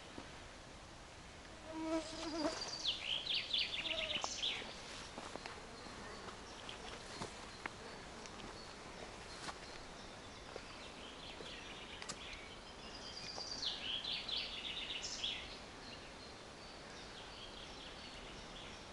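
A songbird singing the same short phrase twice, about ten seconds apart: a quick run of high notes falling in pitch.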